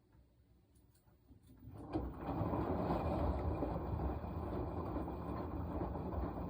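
Washing machine partway through a wash cycle: after a near-silent pause with a few faint clicks, the drum starts turning about two seconds in. It turns with a steady, rumbling churn that carries on to the end.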